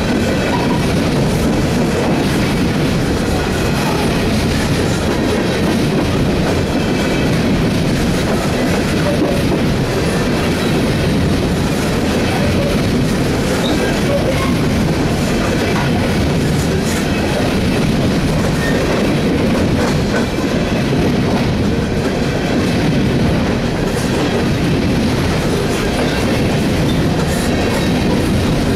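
Empty coal hopper cars of a freight train rolling past, their wheels making a loud, steady rumble and clatter on the rails.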